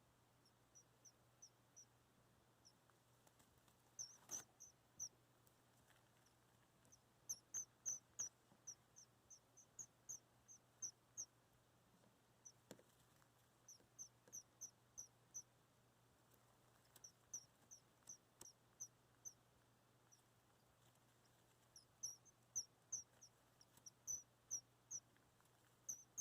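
Baby bird peeping: short, high chirps in quick runs of several notes, with pauses of a second or more between runs.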